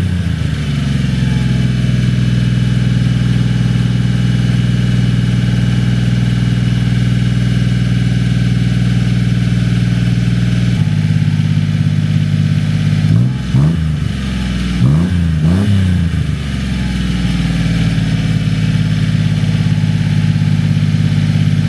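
1996 Honda Acty mini truck's small three-cylinder engine idling high just after a cold start, running through a newly fitted aftermarket exhaust with a little deep rumble. About halfway the idle steps down, and a few seconds later the engine is revved briefly twice before it settles back to idle.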